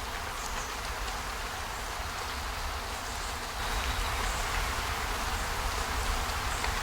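Steady hiss of rain over a low rumble, getting louder about halfway through, with a few faint ticks.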